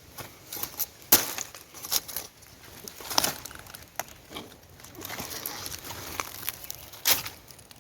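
Dry leaves and brush crackling and rustling as someone moves through and handles dense vegetation, with a few sharper snaps about a second in, at two seconds, around three seconds and near seven seconds.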